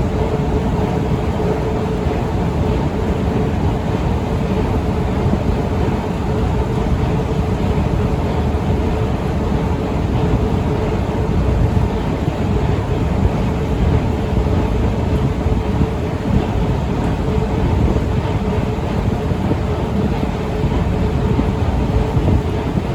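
Otis escalator running steadily: a constant low rumble with a steady hum.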